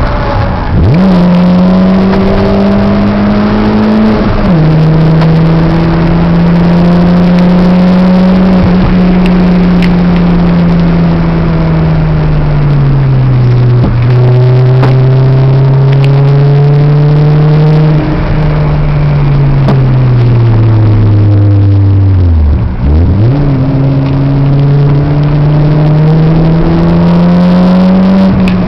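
Peugeot 206's engine heard from inside the cabin under hard track driving: revs climbing through the gears with a sudden drop at each upshift, falling away as it slows, dipping very low about two-thirds of the way through, then pulling up again.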